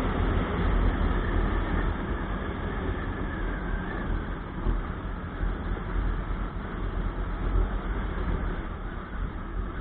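A 2015 Bajaj Pulsar RS200 motorcycle on the move, its single-cylinder engine mixed with rushing wind and low buffeting on the microphone. The overall level slowly eases off.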